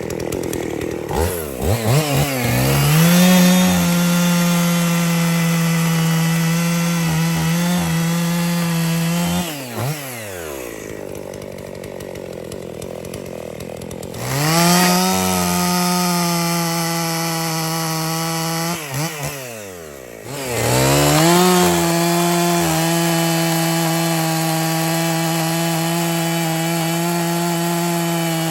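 Husqvarna 55 two-stroke chainsaw bucking a log. It is revved to full throttle and held at a steady pitch through a cut, then drops back to idle about ten seconds in. It revs up for another cut around fifteen seconds in, dips briefly, and revs up again around twenty seconds in.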